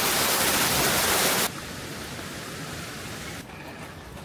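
Heavy rain pouring down, a loud, even hiss that cuts off sharply about a second and a half in to a quieter steady rain hiss, which drops again near the end.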